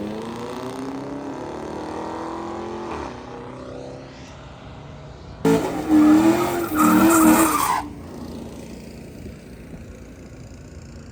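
Drag racing cars: one car's engine climbing in pitch as it accelerates away and fades over the first few seconds. About halfway through comes a loud burst of revving of about two seconds, then a low steady engine rumble.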